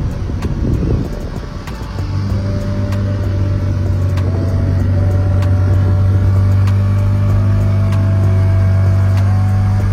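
An engine running with a steady low drone that settles in about two seconds in, with faint music notes stepping above it.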